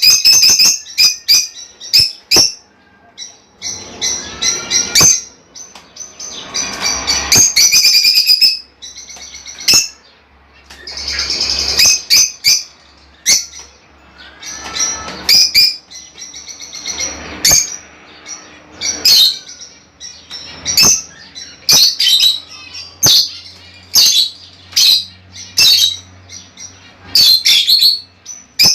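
Budgerigars chirping and warbling continuously, a busy mix of short high chirps, chattering trills and sharp clicks.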